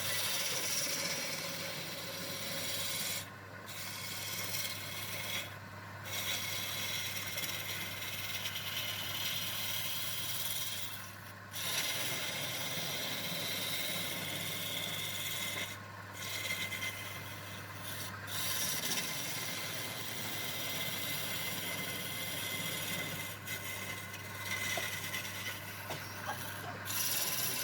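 Abrasive rubbing on wood, a continuous scratchy rasping broken by a few brief pauses. A steady low hum runs underneath and fades out about two-thirds of the way through.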